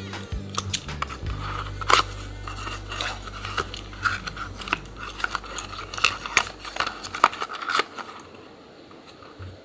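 Die-cast toy cars and their cardboard and plastic packaging being handled: irregular small clicks, taps and crinkles, several sharper knocks among them. A deep steady hum runs under them and fades out about eight seconds in.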